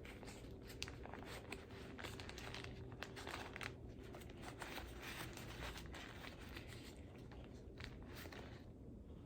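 Plastic wrapping of a Foley catheter kit being peeled open and handled: irregular crinkling and crackling of packaging.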